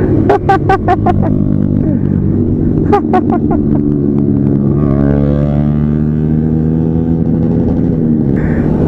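Motorcycle engine running steadily under way, its pitch rising slightly about five seconds in. Two short runs of rapid sharp clicks come near the start and about three seconds in.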